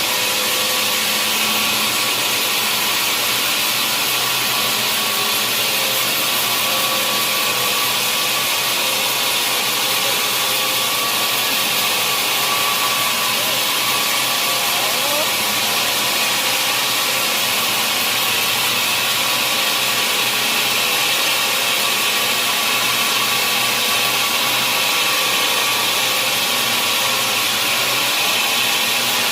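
Sawmill saw cutting through a large mahogany log, a steady loud mechanical noise that holds without a break.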